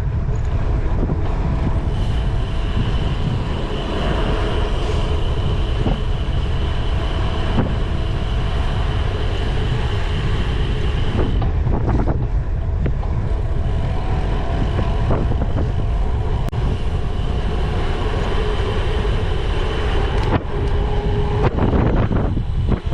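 Wind rushing over the microphone and the rumble and rattle of a cyclocross bike rolling over rough ground, with occasional sharp knocks from bumps. A faint steady high whine drops out for a moment around the middle and then returns.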